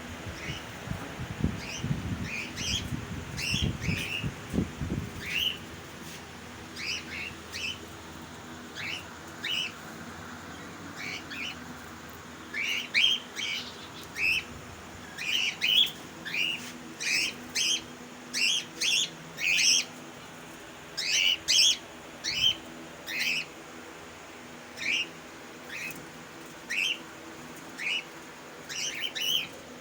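Colony of budgerigars chirping: many short, sharp calls one after another, thickest in the middle stretch. Low rumbling knocks under the calls in the first few seconds.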